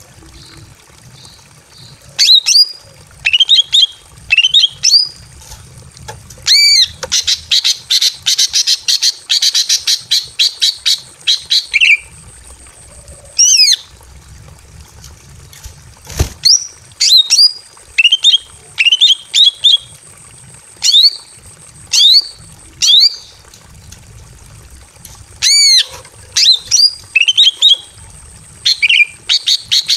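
Female green leafbird (cucak ijo) calling in breeding condition, as if to draw a male: repeated short, sharp calls with quick swooping notes, given in bursts of several, with a fast rattling chatter from about seven to twelve seconds in. A single sharp knock about sixteen seconds in.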